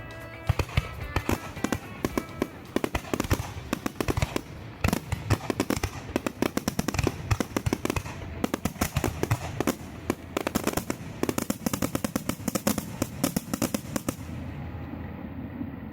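Aerial fireworks going off in a dense, rapid barrage of bangs and crackles, with background music underneath. The bursts stop about a second and a half before the end, leaving a steady low rumble.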